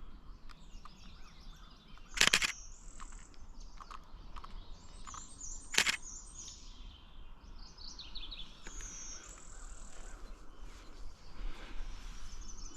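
Warbler songs made of high buzzy notes, which the birder matches to a blue-winged warbler's call, repeating several times among other chirping birdsong. Two brief loud bursts of noise cut across it about two and six seconds in.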